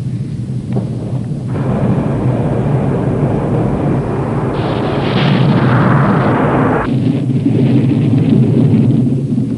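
Thunder from a storm over the steady drone of an airliner in flight: a long roll that builds about a second and a half in, peaks around five to six seconds and cuts off suddenly near seven seconds.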